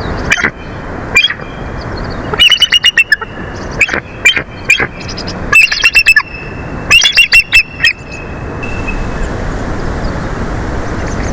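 Bald eagles chattering: a single sharp call or two, then several quick series of high, piping notes, each series lasting under a second. Steady wind noise from the storm rushes over the microphone underneath.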